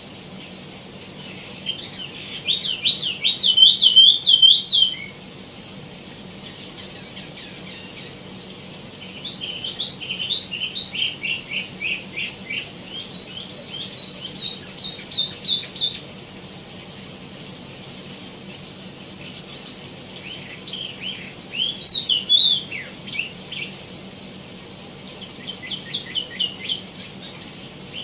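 Wambi mini (tieumi) songbird singing in four bouts of rapid, high, chirping notes, separated by short pauses.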